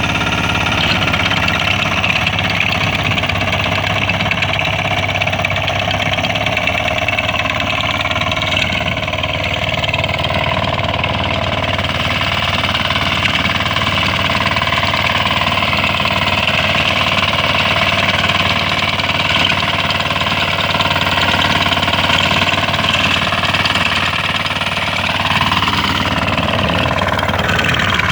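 Motor Sich MB-9DE diesel walk-behind tractor running steadily under throttle while working its rotary tiller.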